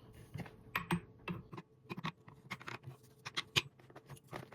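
Irregular metallic clicks and knocks of hand tools and a steel muzzle brake being handled and tightened onto an AR-15 pistol barrel, about a dozen in a few seconds.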